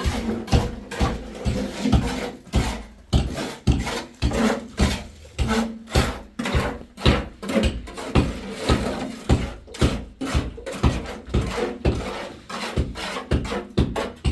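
Repeated rasping, scraping strokes, about two to three a second and irregular in rhythm.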